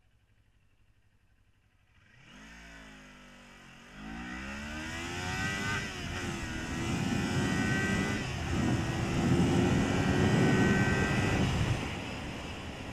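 2018 Kawasaki Ninja 400's parallel-twin engine accelerating hard from a standstill, its pitch climbing and dropping back at each upshift through the gears. It starts about two seconds in, grows louder, holds at high revs and fades near the end.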